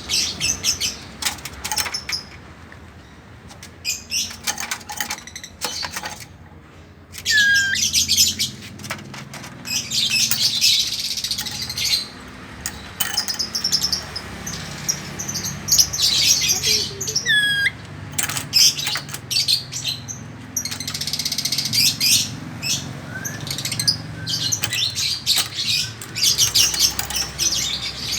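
Chattering lory parrots calling in many short, sharp notes, some with a quick bend in pitch, over a faint steady low hum.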